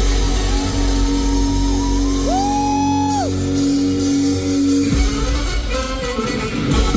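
Live funk-rock band playing in an arena, with guitar and drums. A long note is held, a brief high note rises over it about two seconds in, and the full band with heavy bass comes back in about five seconds in.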